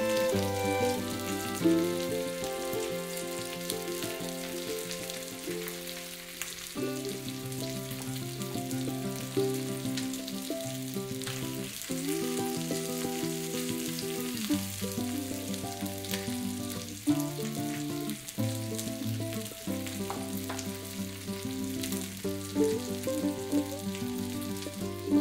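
Chicken thighs sizzling as they fry in hot oil in a pan, a steady hiss, under background music of held notes.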